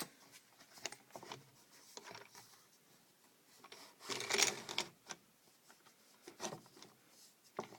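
Handling noise: scattered light taps and clicks, with a brief rustling scrape about four seconds in, as the wooden fence and stop block of a drill press table are handled.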